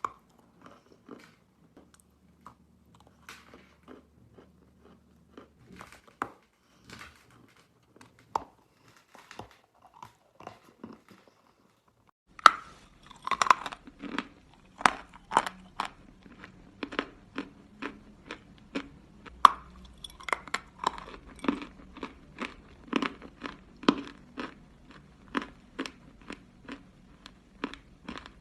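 Someone biting and chewing a round piece of edible chalk close to the microphone. Faint, scattered crunches come first; about halfway through, a louder bite starts a steady run of crisp crunches, two or three a second.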